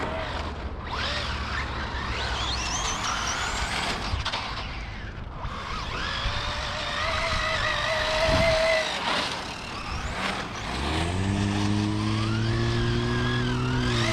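Electric RC cars' motors whining, pitch rising and falling with the throttle. About eleven seconds in, a low steady drone joins and becomes the loudest sound.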